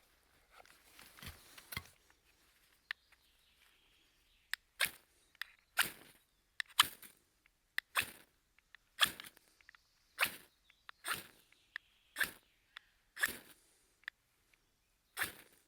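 A series of short, sharp scraping strokes, about one a second, beginning about five seconds in, after faint rustling.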